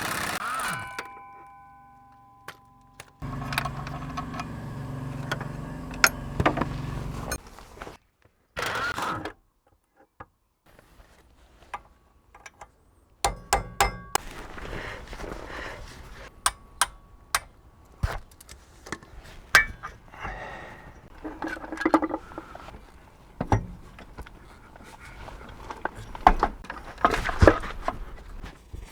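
Hand-tool and fastener work under a car: a metallic ring at the start, about four seconds of a steady mechanical run a few seconds in, then a long stretch of scattered sharp metal clicks and knocks.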